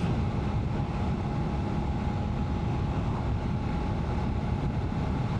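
A BMW F850 GS Adventure's parallel-twin engine running steadily while riding, mixed with wind and road noise.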